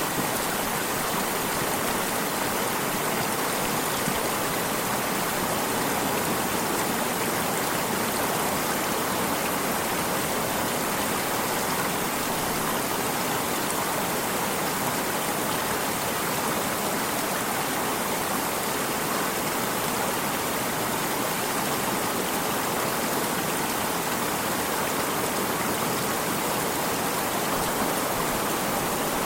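Running water of a stream, a steady even rushing without breaks or changes.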